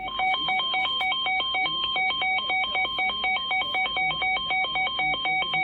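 Weather radio receiver's alert alarm sounding for a severe thunderstorm warning: a loud electronic tone warbling rapidly between a low and a high pitch, several switches a second, without a break.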